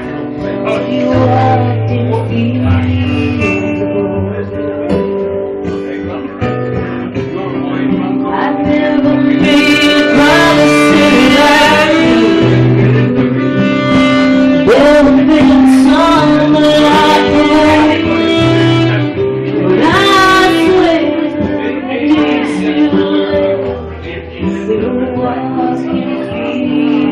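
Live band music: a singing lead over guitar and a steady bass line, loudest in the middle.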